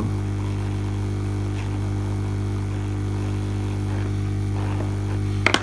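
Lukey 852D+ hot air rework station running, its handpiece blowing hot air onto a circuit board to desolder a chip, with a steady hum of evenly spaced low tones. A short sharp click comes near the end.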